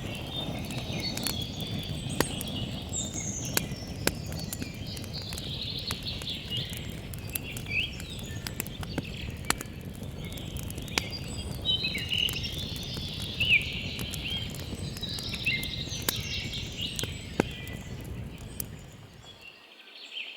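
Campfire crackling, with sharp pops scattered over a low, steady rumble of burning, while birds chirp and sing throughout. The fire's rumble fades out near the end.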